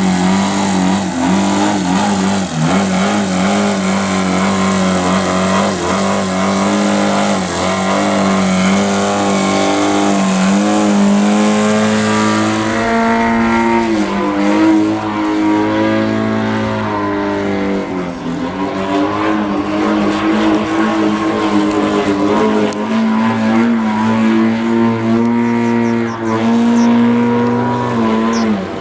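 YS TZ240 boxer four-stroke model-aircraft engine running with its propeller. The engine note rises and falls as the throttle changes, with a few brief dips.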